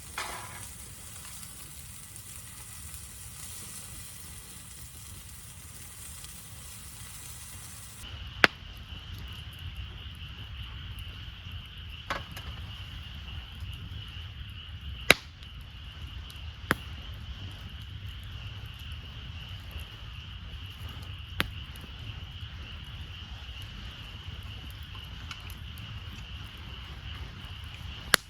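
Campfire crackling, with sharp pops at irregular intervals of a few seconds over a steady high-pitched hum. The sound changes abruptly about eight seconds in, from a soft hiss to the hum and the pops.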